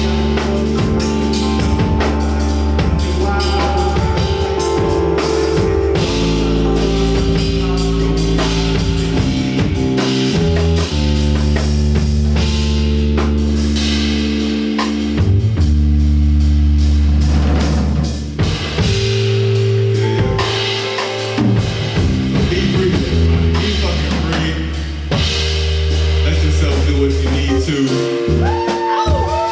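A live rock band playing an instrumental passage without vocals: drum kit, bass guitar holding long low notes that change every second or two, and guitar.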